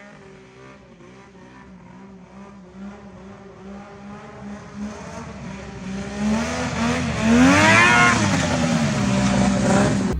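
Snowmobile with a swapped-in Polaris XLT 600 two-stroke triple engine running and growing steadily louder as it comes closer. Its pitch climbs and then drops at the loudest point, near the end.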